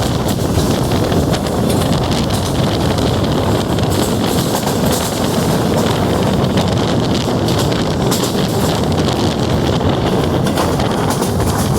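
Passenger train running at speed, heard from inside the coach: a steady, loud rumble of wheels on the track with fine rattling over it.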